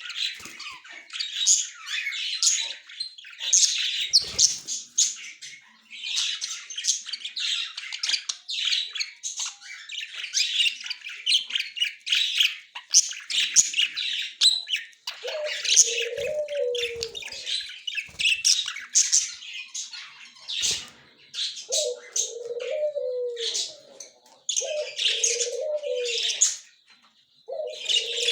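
A small group of budgerigars chattering and warbling in fast, high chirps without a break. Four times in the second half, a lower, deeper call rises and falls for about a second and a half beneath the chatter.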